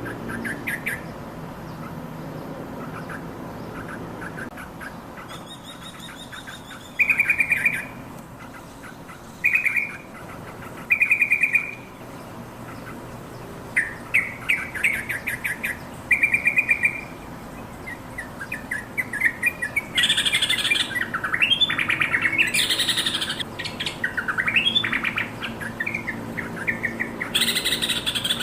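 Yellow-vented bulbul singing: short bursts of quick chattering notes a second or two apart, turning into louder, almost continuous chatter of rising and falling notes about two-thirds of the way through.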